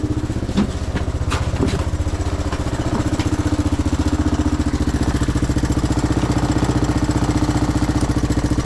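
Honda Big Red's engine idling steadily with an even, rapid pulse, with a few light clicks in the first couple of seconds.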